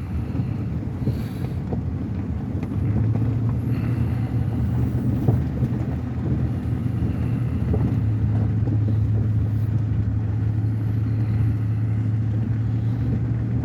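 Truck driving along a bumpy dirt road, heard from inside the cab: a steady low engine drone over tyre and road rumble, the drone growing steadier and stronger about three seconds in.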